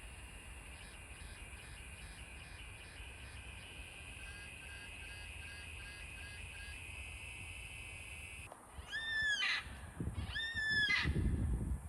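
Birds calling over a steady high hum: a short note repeats about twice a second for a few seconds. Then two loud, drawn-out, arching calls come about a second apart, the second over a low rumble.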